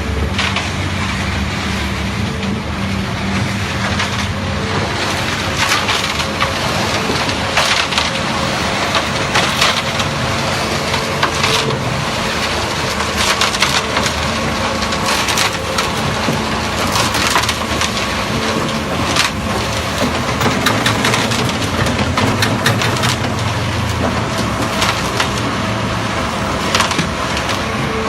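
Truck-mounted concrete mixer pump running, with a steady engine hum under repeated sharp knocks and clatter, many of them about two seconds apart.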